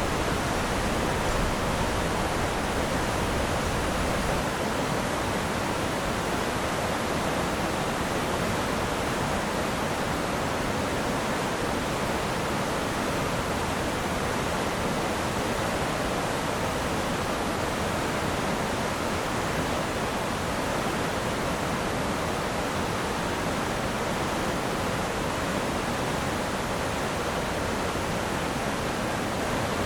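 Steady, unbroken rush of water pouring through the dam's open spillway shutters, a dense even roar with no change in level.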